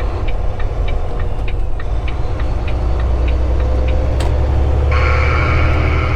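Semi-truck diesel engine droning steadily inside the cab, with a turn-signal indicator clicking about three times a second through the first half. About five seconds in, a loud hiss suddenly joins the drone.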